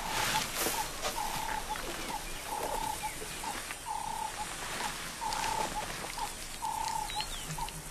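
A bird repeating a short, even-pitched note, about three notes every two seconds, over a faint natural background.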